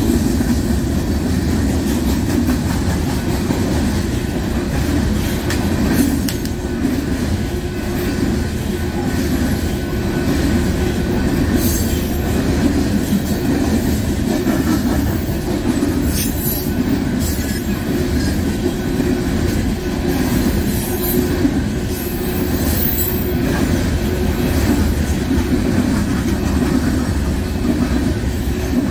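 A train's cars rolling past close by, a steady heavy rumble of wheels on rail. Brief high-pitched wheel squeals cut through a few times in the middle stretch.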